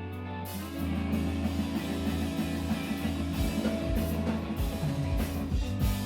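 Live emo/screamo rock band playing: a held guitar chord rings, then about half a second in the full band comes in with guitars and a drum kit beating steadily.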